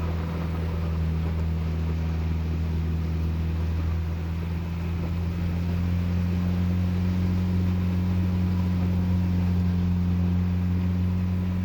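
A steady low engine drone, like a running vehicle's engine heard from inside it, with a faint even hiss over it.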